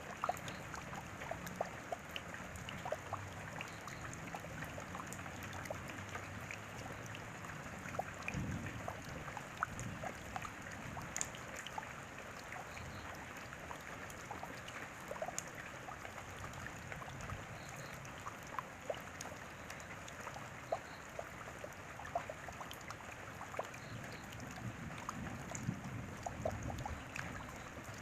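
Steady rain, with many individual drops ticking through an even hiss of falling water. A soft low rumble swells in about a third of the way through and again near the end.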